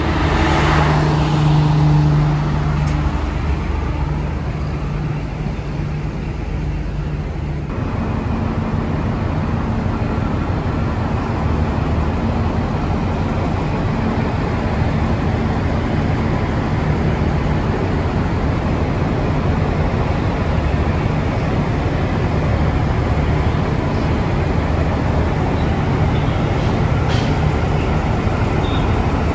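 Train carriages rolling past a platform for the first several seconds, with a brief falling whine. Then a V/Line VLocity diesel railcar's engine drones steadily on a nearby track.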